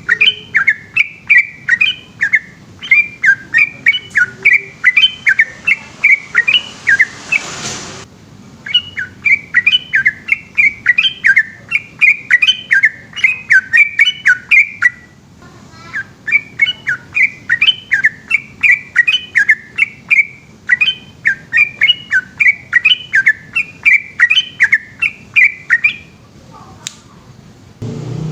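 Yellow-vented bulbul (trucukan) singing a long, rapid run of short chirping notes, several a second, in long phrases broken by a few brief pauses. A hiss rises behind the song about a quarter of the way in.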